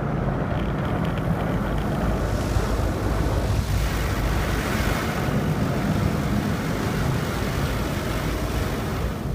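Automatic car wash heard from inside the car: a steady low rumble under a rushing hiss that grows stronger about two seconds in and eases off near the end.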